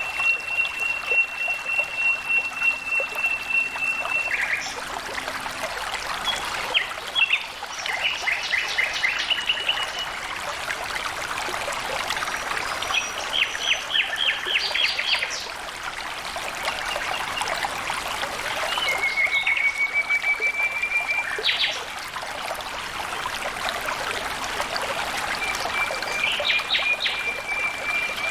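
Steady flowing, trickling water, with birds calling over it: a long level whistle, several bursts of fast repeated notes and a slightly rising whistle later on.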